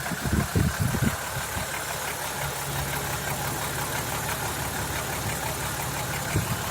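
BMW M50 straight-six engine idling hot, running steadily with a regular knock in it. The knock shows up when the engine is warm; the owner doubts it is the crankshaft bearings, since worn bearings would knock at every temperature. A few low thumps come in the first second.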